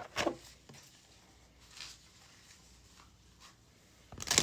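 Tarot cards being shuffled by hand: a brief shuffle at the start, then only faint card handling, then the shuffling starts again loudly near the end.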